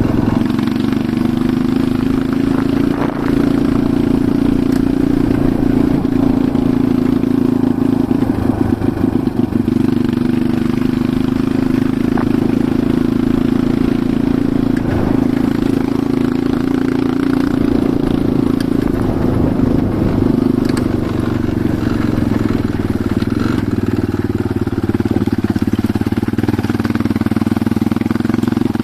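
Enduro motorcycle engine running steadily under way, its pitch rising and falling a little with the throttle.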